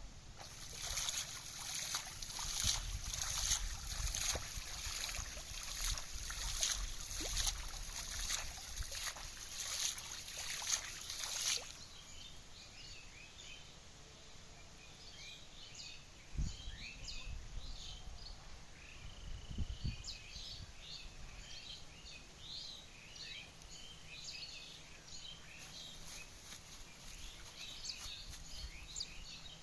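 Outdoor sound: a run of rapid, irregular crackling or splashing for about the first eleven seconds, then many short bird chirps over a quiet background, with a couple of dull low thumps.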